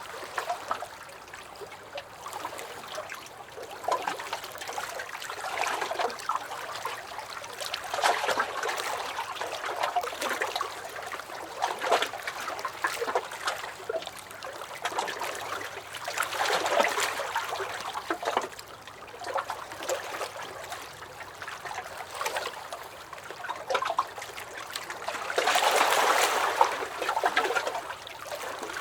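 Small lake waves lapping and splashing against a dock, in irregular swells every few seconds with little slaps of water, the largest swell near the end.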